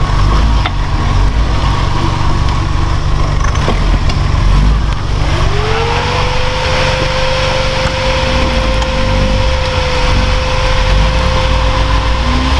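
Off-road military terrain vehicle's engine running with a steady low rumble. About five seconds in, a whine rises in pitch and then holds steady.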